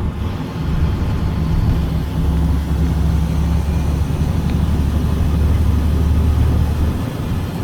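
Caterpillar C7 straight-six diesel of a 2006 Blue Bird Vision school bus running while the bus drives, heard from on board. A deeper engine drone builds about two seconds in and eases off near the end.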